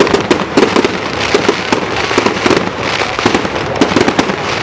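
Fireworks going off in quick succession: many sharp crackling bangs, several a second without a break, over a constant hiss.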